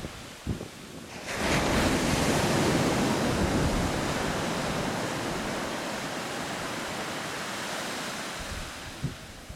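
Surf on a sandy beach: a wave breaks about a second in and its wash rushes up the sand, then slowly fades over the following seconds.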